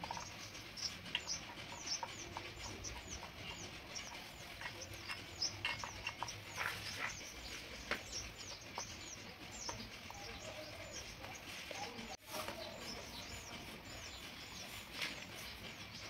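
Faint small birds chirping in the background: many short chirps, each falling quickly in pitch, repeated irregularly throughout, with a few soft taps.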